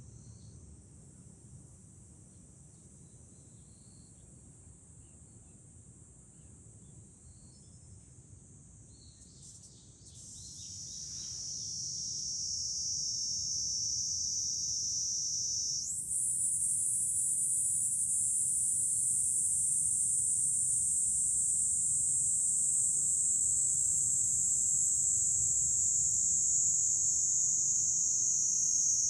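Cicadas buzzing in a steady, high chorus that swells much louder about a third of the way in and jumps louder again about halfway through, over a low background rumble.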